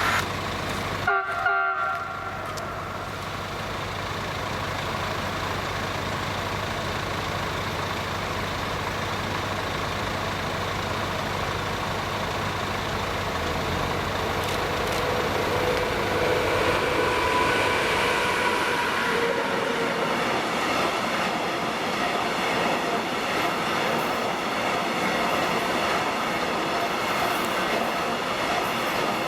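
Railway train rolling past with steady wheel-and-rail noise. A short horn toot sounds about a second in, and a whining tone rises in the middle.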